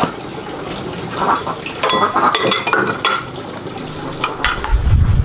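Metal pots and utensils clinking a few times, with a low rushing sound, like water pouring, starting near the end.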